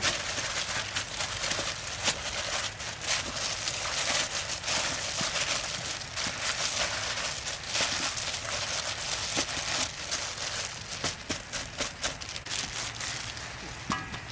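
Food frying in hot oil: a steady sizzle with dense, irregular crackling and popping.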